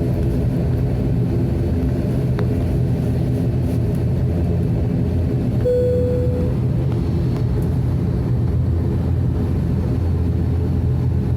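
Propeller airliner's engines droning steadily, heard from inside the passenger cabin, with a stack of steady low tones. A short single tone sounds a little over halfway through.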